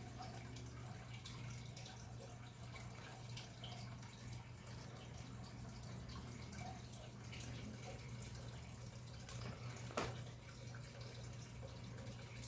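Faint handling sounds as foam and tape are fitted over a small portable speaker's driver: scattered small clicks and ticks, one sharper click about ten seconds in, over a steady low hum.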